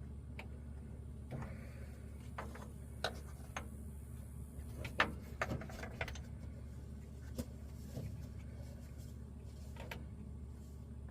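Scattered light clicks and knocks of hands and tools working on the plastic hose quick-connect fittings of a truck's carbon canister, the sharpest about five seconds in, over a steady low hum.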